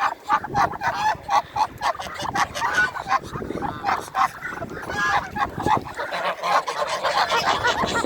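A flock of farmyard waterfowl honking: many short calls overlap without a break, mostly goose-like honks.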